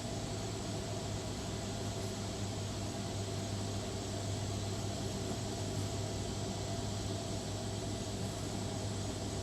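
A motor running steadily: a constant low hum over an even hiss, with no change in pitch or level.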